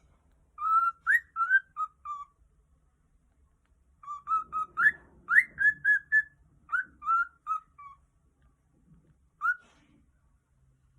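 Cockatiel whistling in short, rising and falling notes: a phrase of about five notes, a pause, a longer phrase of about a dozen notes, then a single note near the end. Happy, contented cockatiel whistling.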